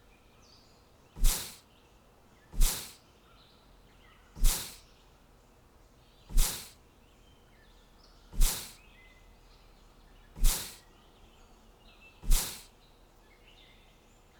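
A short, sharp sound effect repeating seven times, about every two seconds, each hit dying away quickly, over faint bird chirps.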